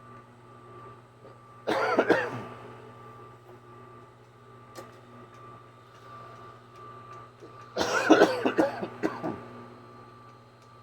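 A person coughing: one short fit about two seconds in and a longer run of several coughs near the end, over a steady background hum.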